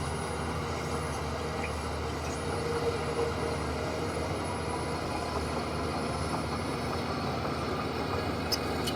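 Heavy earthmoving machinery's diesel engine running steadily at a constant pitch.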